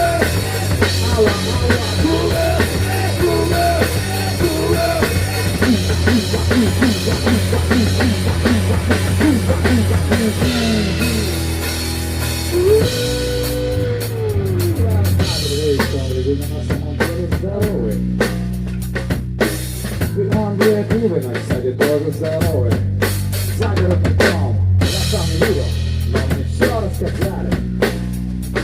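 Rock music with a drum kit, bass and a wavering melodic line over a steady beat. About halfway through, the sound thins out and the separate drum hits stand out more.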